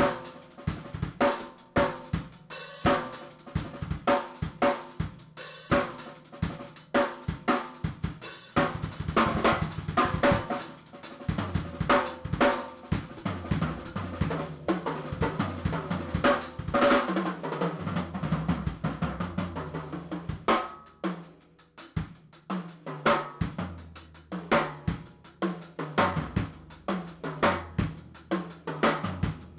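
Drum kit played solo in fast shedding style: snare, bass drum, hi-hat and cymbal strokes, with a dense rapid run about nine to eleven seconds in and low tom hits a little later. A brief break comes about twenty-one seconds in before the playing picks up again.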